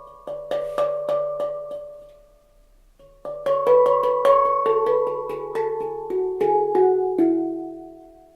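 Handpan in the Humming Bird D scale (D, E, F#, G#, A, B, C#, D) played by hand: quick runs of struck notes that ring on, fading away about two seconds in, then after a short pause a new phrase that steps down in pitch and rings out near the end.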